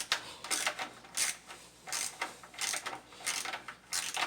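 Hand socket ratchet clicking in short back-and-forth strokes, one to two a second, as manifold bolts are snugged down by hand.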